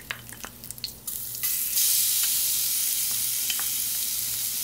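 Ginger, garlic and green chilli paste hitting hot sesame oil with curry leaves in a stainless steel pan. Light crackling, then a loud, steady sizzle that starts about a second in and swells to full strength a moment later.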